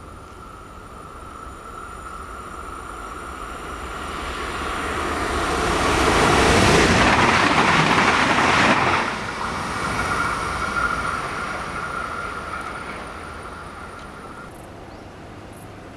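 Red DB S-Bahn electric train passing at speed: the rush of wheels on rail builds as it approaches, is loudest for about three seconds, drops off sharply as the last car passes, then fades away. A steady high whine sounds under it and stops near the end.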